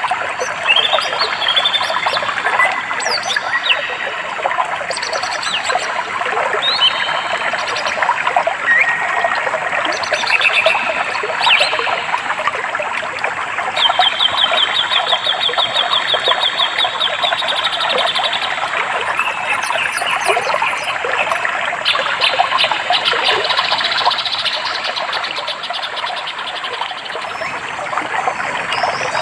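Steadily flowing stream water with several birds singing over it: many short chirps and whistled sweeps, and one bird's fast, even trill lasting about four seconds near the middle.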